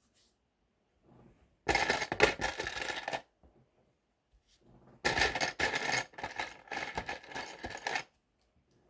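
Loose plastic LEGO pieces clattering and rattling as a hand rummages through them, in two bursts: a short one of about a second and a half near two seconds in, and a longer one of about three seconds starting about five seconds in.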